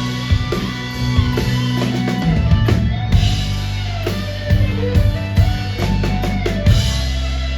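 Live rock band playing an instrumental passage: drum kit strikes over held low notes, with a guitar melody that bends in pitch.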